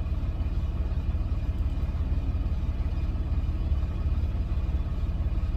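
Freightliner Cascadia semi-truck's diesel engine and road noise heard from inside the cab while driving: a steady low rumble with no change in pitch.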